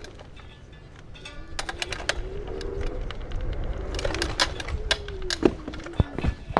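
Rental electric scooter ridden over pavement: a faint motor whine rises as it speeds up, then falls away. Sharp clicks and knocks from the wheels and deck rattling grow denser in the last couple of seconds.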